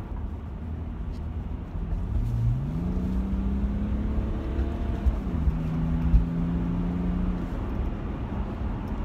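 BMW 7 Series (F01) accelerating, heard from inside the cabin over steady road rumble: the engine note rises for about a second, holds, then steps down slightly about halfway through, as at an automatic gearbox upshift, and fades back into the road noise.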